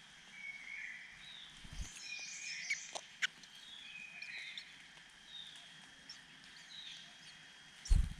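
Small birds chirping: a run of short, high calls with little pitch slides, a few each second. A soft low thump comes about two seconds in, and a louder one near the end.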